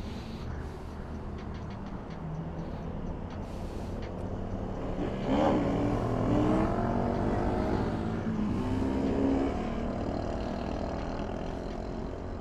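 Yamaha YZF-R1 sportbike's inline-four engine running, then accelerating with its pitch rising about five seconds in and again about eight seconds in, over a steady low engine drone.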